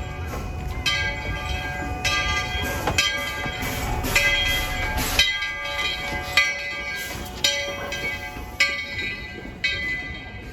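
Steam locomotive's bell ringing steadily, about one stroke a second, each stroke ringing on, over a low rumble from the engine.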